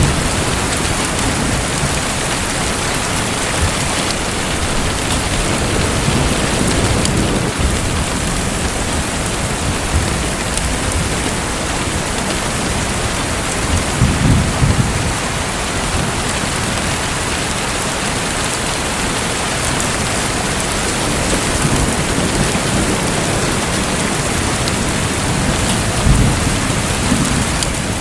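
Steady, even hiss of water noise like falling rain, with brief low rumbles about halfway through and again near the end.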